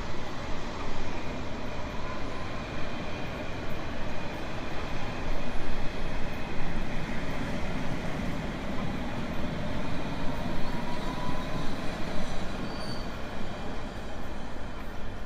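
Train running on rails: a steady rumble with faint high wheel squeals that come and go.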